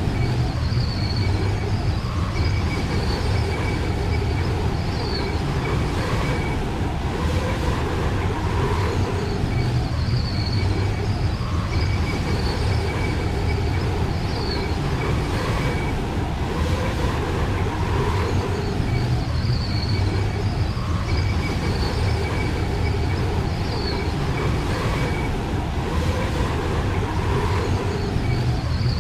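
Steady, loud rumbling noise, strongest in the low bass, with faint short high chirps recurring every few seconds.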